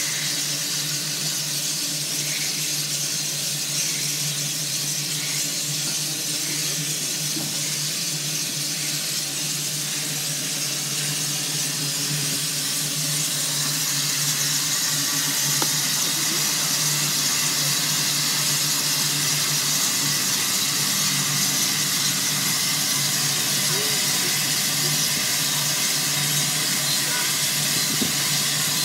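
Steady hiss of escaping steam from a Russell & Co. steam traction engine as it is being steamed up, growing a little louder about halfway through.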